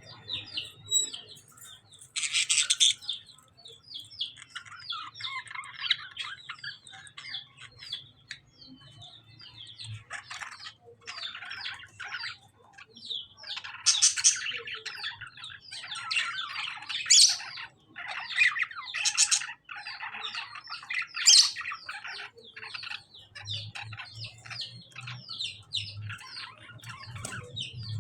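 Lovebirds and budgies chirping and chattering non-stop, broken every few seconds by louder, harsh squawks.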